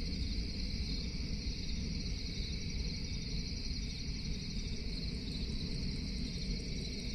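Crickets trilling steadily in a night chorus, with faint rapid insect ticking above and a low rumble underneath.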